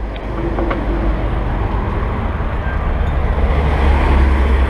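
Wind buffeting the microphone while cycling, a steady low rumble with a haze of road noise, growing a little louder near the end.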